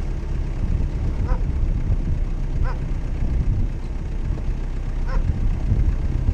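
Jeep Cherokee running off-road with a steady low rumble. Three short, high-pitched honk-like cries or squeaks cut through it, about one and a half to two and a half seconds apart.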